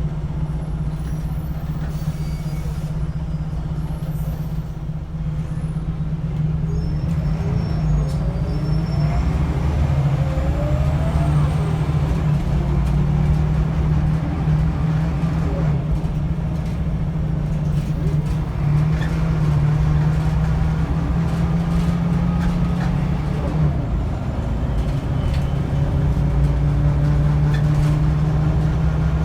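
Scania L94UB bus engine and ZF automatic transmission heard from on board, a steady low drone throughout. Twice, about six seconds in and again past the midpoint, a whine rises and falls in pitch as the bus gathers speed and the gearbox works up through its gears.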